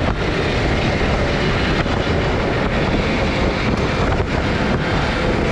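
Wind rushing over the microphone of a moving off-road vehicle, over a steady engine and tyre drone.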